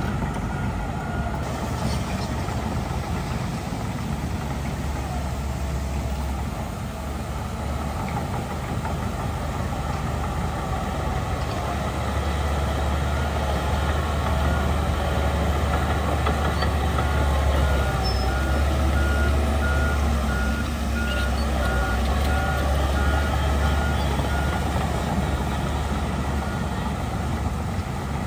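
Heavy diesel earthmoving machinery running steadily with a low engine rumble, the engine working harder in the second half. A reversing alarm beeps in a steady on-off pattern at the very start and again for several seconds past the middle.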